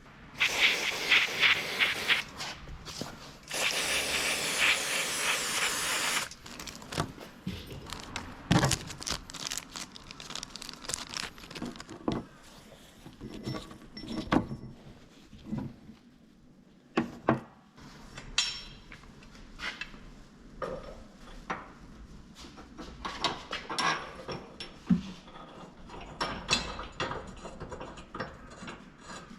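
Hand tools on car suspension bolts: a quick run of socket-ratchet clicking near the start, a few seconds of steady rushing noise, then scattered metallic clicks, clinks and knocks of tools and parts.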